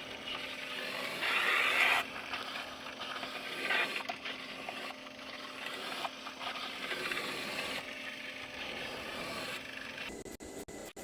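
ILIFE V4 robot vacuum running over a gritty hardwood floor: its brushes scrape and rub over sand and dirt above a steady motor hum. It is louder for a moment about a second in and breaks up with short gaps near the end.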